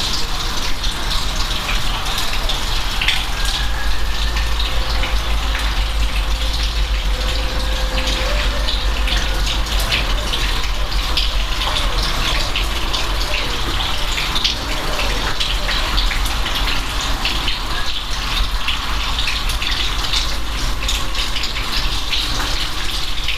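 Steady heavy rain, with many individual drops ticking sharply over a continuous wash of water noise and a low rumble.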